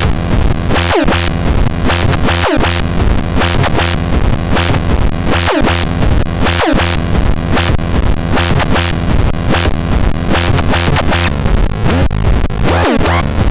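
Experimental rhythmic synthesizer music with a fast, dense pattern of sharp percussive hits over a heavy bass, and now and then a falling pitch sweep.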